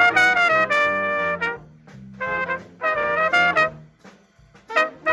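Jazz big band playing a swing passage, trumpets leading the brass in loud punched chords with short rests between phrases and a bass line moving underneath. The band breaks off briefly near the end, then comes back in.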